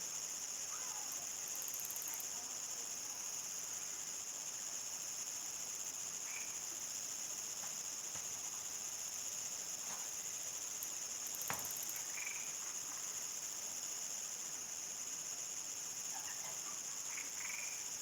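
Crickets singing in a steady, unbroken high-pitched chorus at nightfall, with a few short frog calls, mostly near the end.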